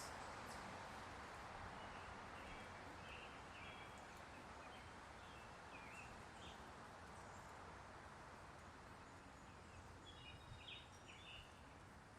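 Faint outdoor background hiss with a few short, soft bird chirps, in two clusters: a few seconds in and again near the end.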